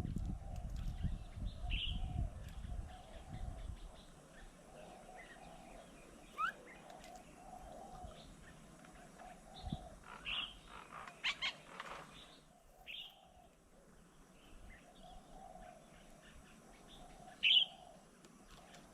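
Birds chirping: scattered short calls, a quick cluster about ten seconds in and the loudest chirp near the end, over a low rumble in the first few seconds.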